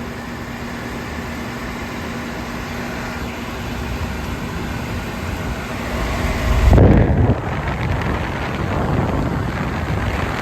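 Everstar 10,000 BTU portable air conditioner running with its fan on high speed, a steady rush of air. About six seconds in it grows louder, with a low rumble of the airflow buffeting the microphone.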